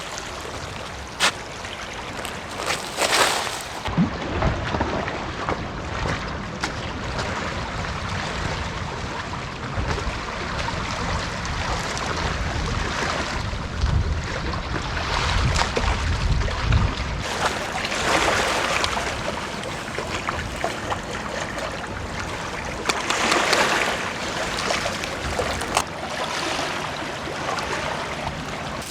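Outdoor wind and water noise: a steady hiss, with a low rumble through the middle and a few scattered knocks.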